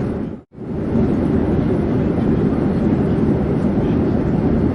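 Steady low rumbling drone of an airplane in flight. It cuts out abruptly for a moment about half a second in, then fades back in.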